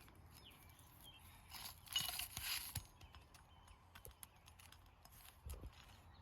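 Faint scraping and rustling with scattered light taps and a dull knock near the end, from hand tools and asphalt shingles being handled during a shingle repair.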